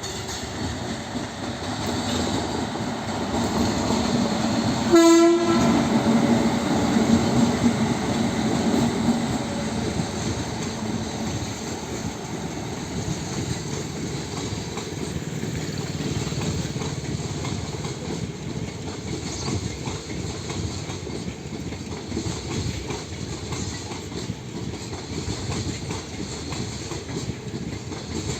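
A train passing, its wheels clattering over the rail joints. It grows louder to its loudest about five seconds in, where the horn gives one short blast, then slowly eases off.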